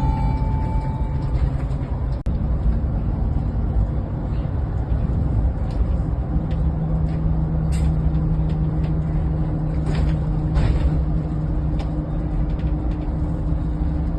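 Inside a moving bus: steady engine and road rumble, with the engine's hum growing more prominent about six seconds in. A brief click and dropout a couple of seconds in.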